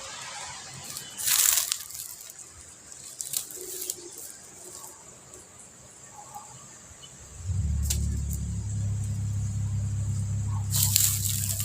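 A few short crunches, like bites into crisp wax apple, then about two-thirds of the way in a vehicle engine starts up close by with a steady low hum that runs on.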